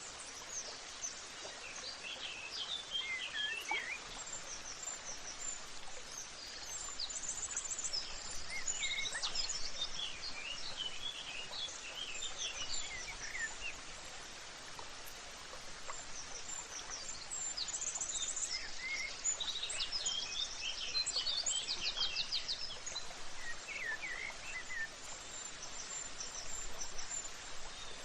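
Several songbirds chirping and singing quick high trills, on and off throughout, over a steady background hiss.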